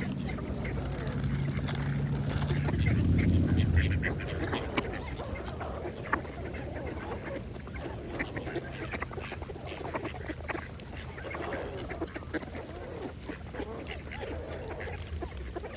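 Mallard ducks quacking and feeding, with many short clicks and splashes scattered through. During the first four seconds a low steady hum underlies them, loudest about three seconds in, then fading.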